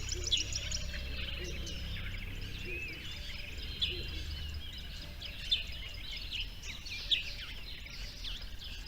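Several birds chirping and calling in short, quick, high-pitched chirps, with a few louder ones standing out. A low rumble underneath fades out about halfway through.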